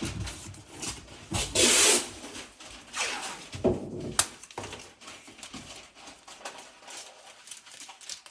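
Masking tape pulled off the roll with a loud tearing rasp about a second and a half in, with smaller rustles and clicks as it is handled and pressed into place.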